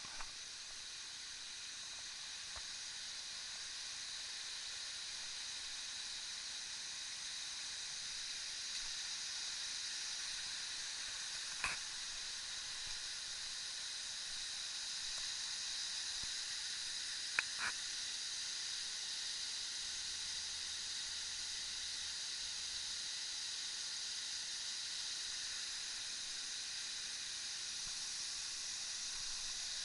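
Steady hissing rush of the Dzhur-Dzhur waterfall, growing a little louder over the first several seconds, with two brief clicks partway through.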